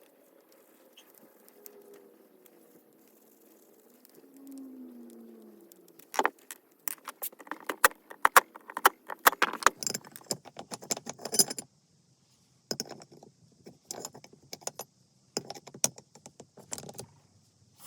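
Quiet at first, then a dense run of sharp clicks and rattles from about six seconds in, like small hard metal parts being handled or shaken. The noise stops abruptly around twelve seconds in, then comes back as scattered clacks. No motor is running.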